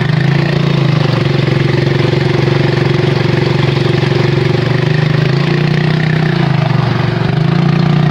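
Honda 2 hp four-stroke outboard motor (single-cylinder) running steadily just after starting first time. Its speed picks up briefly three times, near the start, around the middle and near the end.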